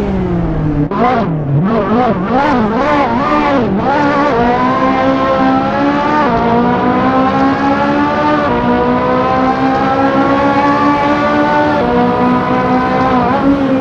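High-performance sports car engine. The revs drop at first, then swing quickly up and down for a few seconds, then hold at a fairly steady, slowly rising pitch under load, with a brief dip partway through.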